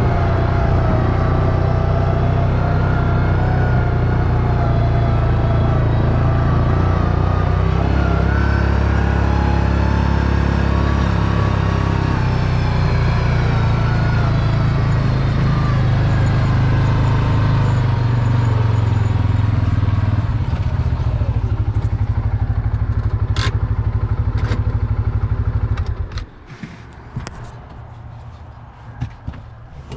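4-wheeler (ATV) engine running steadily, settling to an even pulsing near two-thirds of the way through, then cutting off suddenly as it is shut off, followed by a few light clicks.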